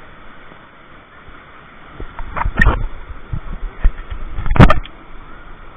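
Steady rush of a waterfall, with two loud thumps about two and a half and four and a half seconds in and a few smaller knocks between them.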